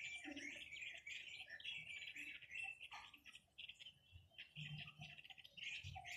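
Quế lâm songbird singing a fast, chattering twitter, thinning out briefly in the middle before picking up again.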